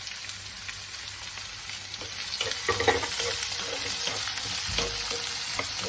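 Chopped onions sizzling in hot sesame oil in a kadai, with a spoon scraping and stirring them through the oil from about two seconds in.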